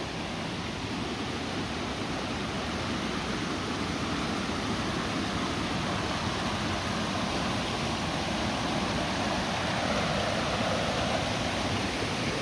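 Janet's Foss waterfall running: a steady rush of falling water that grows slowly louder.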